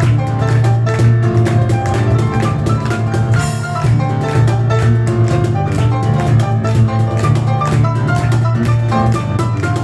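Live piano and cajon duo playing a fast, busy instrumental. Rapid runs of piano notes sit over a strong bass and a dense stream of cajon strikes.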